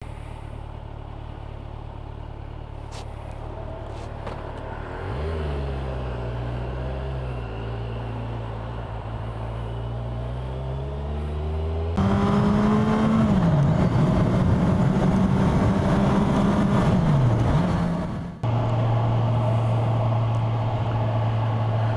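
Kawasaki Ninja 1000SX inline-four engine running under way, its pitch rising and falling with throttle and gear changes. The engine note changes abruptly about twelve seconds in and again near the end, where it settles to a steady low hum.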